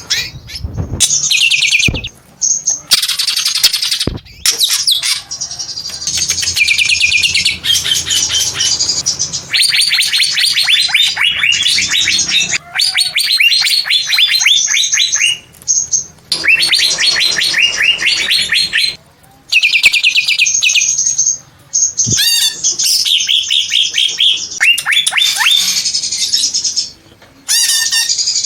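Green leafbird (cucak ijo) singing loud, rapid chattering phrases of quick high notes, in runs a few seconds long broken by short pauses.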